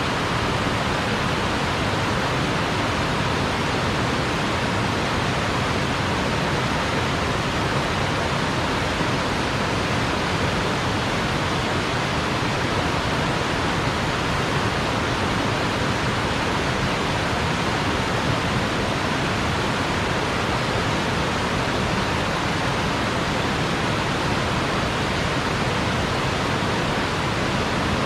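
Mountain headwater stream rushing steadily, a constant wash of running water with no breaks.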